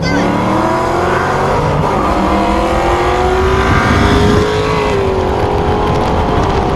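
V8 engines at full throttle in a street roll race, the engine note climbing steadily in pitch for about five seconds, then dipping slightly and holding as the cars keep pulling.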